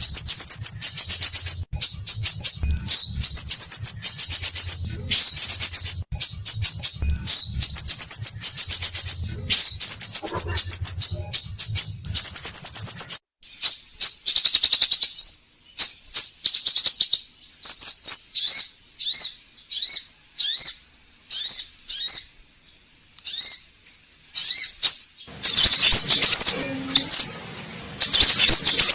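Scarlet minivet (sepah raja) singing: rapid, high, thin trilled phrases, then from about halfway separate short whistled notes about one a second, before dense trilling returns near the end.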